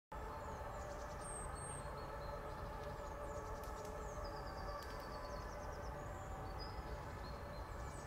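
Birds chirping, with short falling calls and a quick trill, over a steady low background noise.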